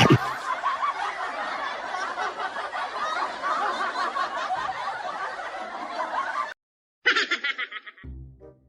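Canned audience laughter, many voices laughing at once, that cuts off suddenly about two-thirds of the way in. A short high, fluttering sound effect follows, and music starts near the end.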